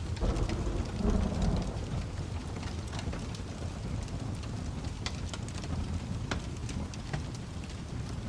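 A low roll of thunder swelling and fading in the first two seconds over steady rain, with scattered sharp crackles and pops from a wood fire throughout.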